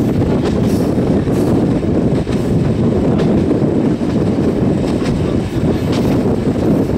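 Passenger train running on the track, heard from one of its coaches: a steady low rumble of wheels on rails, with occasional faint clicks.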